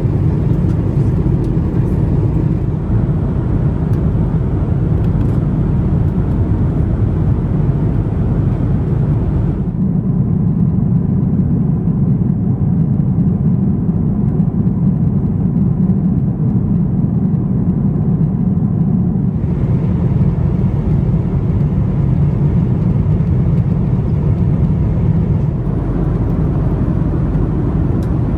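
Steady cabin noise inside a Lufthansa Airbus A340-600: an even, loud low rumble of its four Rolls-Royce Trent 500 engines and the airflow. For about ten seconds in the middle the higher hiss falls away, leaving only the rumble.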